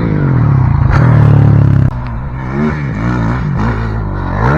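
Dirt bike engine running hard at a steady pitch for about two seconds, then the throttle drops off abruptly and the engine revs up and down several times.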